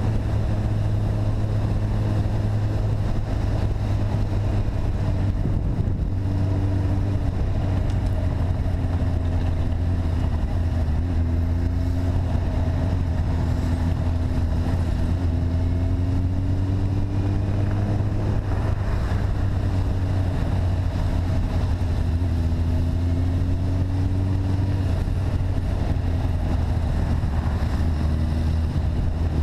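A vehicle engine running steadily under way, a constant low drone whose pitch drifts gently up and down with the throttle.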